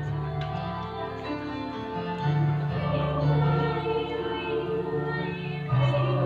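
Choir singing held notes in parts over a low sustained bass, with a new chord coming in near the end.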